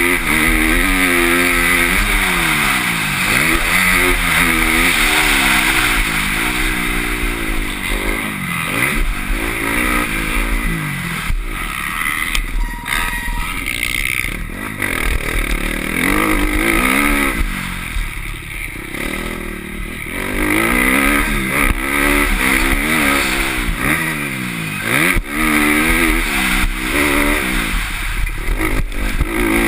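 Motocross bike engine heard from the rider's helmet camera, revving up and dropping back again and again as the throttle is opened and closed around the track. The engine eases off to a quieter run twice in the middle.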